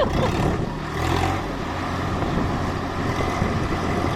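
Swaraj 744 tractor's diesel engine running steadily with a low drone that grows a little stronger about a second in.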